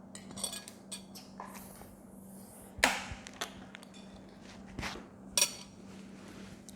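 Eating utensils clinking and knocking against bowls and dishes: a handful of separate sharp clicks, the loudest about three seconds in, and two with a short ring, near the start and about five and a half seconds in. A steady low hum runs underneath.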